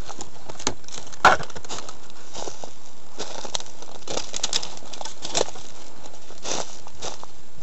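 Irregular footsteps crunching over rough, rocky ground, with a louder crunch about a second in, over a steady background hiss.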